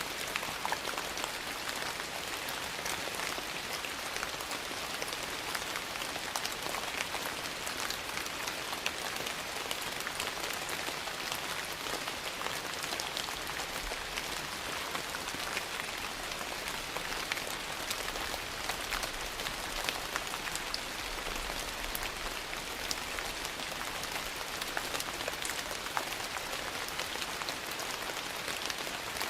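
Steady rain mixed with the scattered sharp pops and crackles of a wood fire burning in a fireplace.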